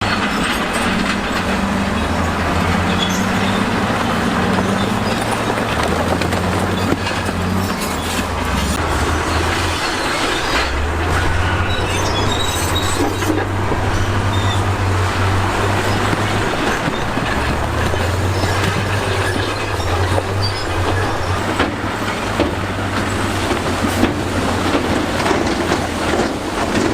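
Crawler bulldozer working: its diesel engine drones, rising and falling in pitch under load, while the steel tracks clank with many short metallic knocks.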